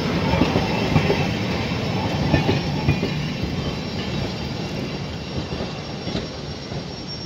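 Train rolling past on the rails with wheel clatter and faint wheel squeal, fading away over the second half.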